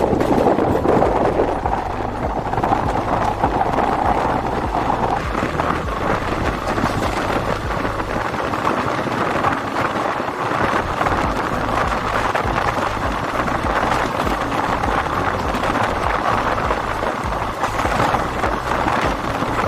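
Moving passenger train: steady wind rush and wheel-on-rail rumble from the running coaches.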